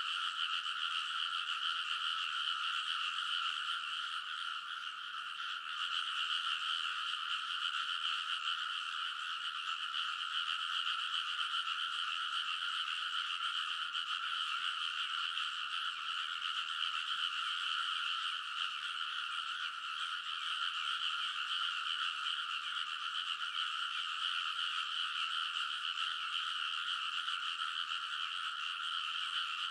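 A dense chorus of many rice-paddy frogs calling at once, their croaks overlapping into one continuous, steady wall of sound, briefly a little thinner about four seconds in.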